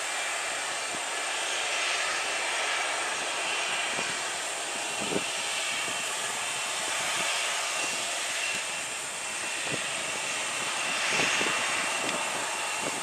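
Boeing 737 jet engines running steadily at low power, a constant hiss with a faint high whine.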